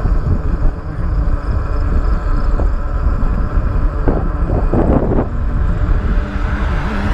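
Wind rumbling over the microphone and road noise while riding an electric bike, with a short louder rush about four to five seconds in.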